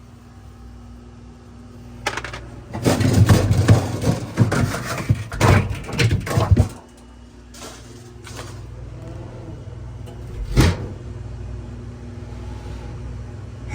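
Clattering and knocking of parts being handled at a running refrigerator, busiest for about four seconds starting around three seconds in, with one sharp knock later on, over a steady low hum from the fridge.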